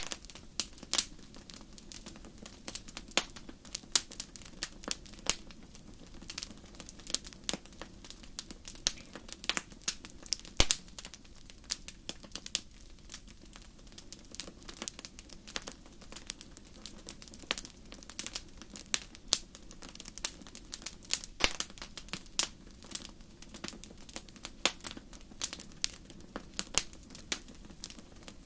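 Wood fire crackling: irregular sharp pops and snaps from burning logs over a low steady hiss.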